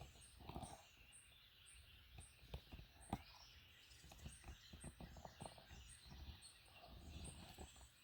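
Faint outdoor morning ambience: a thin, high chirp repeating evenly about twice a second, with soft scattered clicks.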